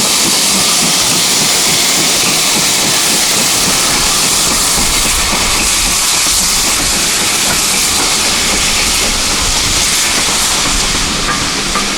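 GWR Manor class 4-6-0 steam locomotive letting off a loud, steady hiss of steam.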